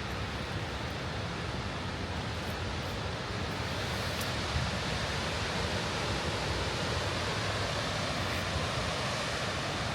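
High Force waterfall on the River Tees: a steady rush of falling water that grows a little louder about four seconds in.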